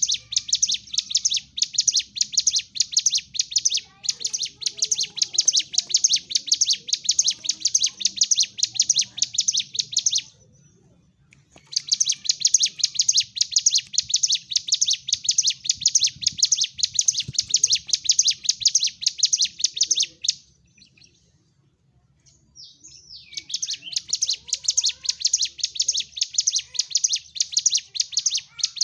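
Ciblek gunung, a prinia, singing its aggressive fighting song: a very fast, unbroken string of high, sharp chirps, in three long bouts with short pauses about ten and twenty seconds in.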